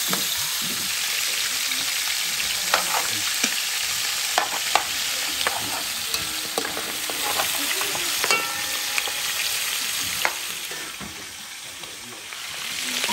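Sausage and boucané (smoked pork) sizzling steadily as they fry in a metal pot over a strong gas flame, stirred with a metal spoon that clicks and scrapes against the pot several times. The sizzle dips briefly near the end.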